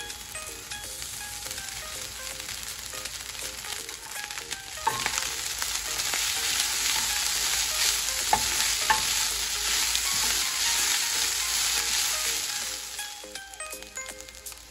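Cooked rice and shredded cabbage sizzling in a hot nonstick frying pan while a wooden spatula stirs and tosses them, with a few sharp knocks of the spatula against the pan. The sizzle swells about five seconds in and fades near the end.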